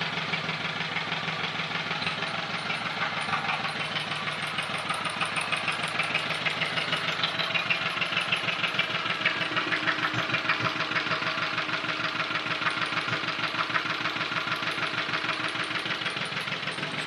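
Vintage Lister Petter stationary engine running at a steady idle, an even rapid firing beat. It is running smoothly now that the magneto has been cleaned and the spark timing and carburettor adjusted.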